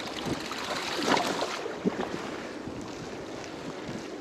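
Blizzard wind rushing over the camera's microphone, a steady rush that swells briefly about a second in.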